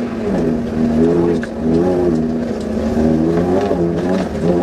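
Off-road rally Suzuki Vitara's engine heard from inside the cabin, driven hard, its revs climbing and dropping again and again.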